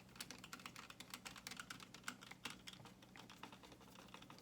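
Faint, rapid, irregular clicks and light taps of small plastic and metal parts being handled while working on RC truck shocks, over a faint steady low hum.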